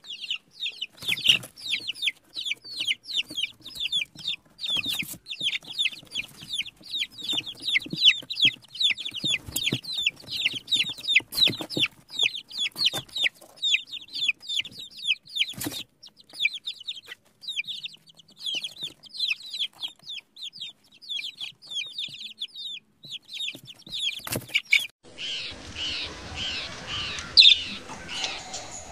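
Birds calling: a dense run of short, high chirps, several a second, shifting about 25 seconds in to a rougher stretch with a few louder calls.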